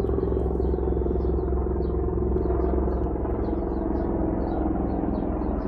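Steady low rumble of an engine running, with faint high chirps repeating a few times a second.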